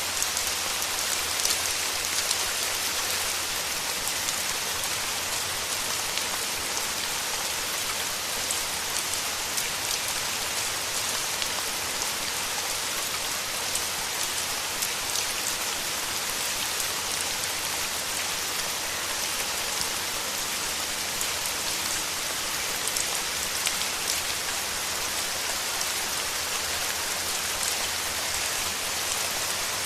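Steady rain falling through forest, a continuous hiss with individual drops ticking close by throughout.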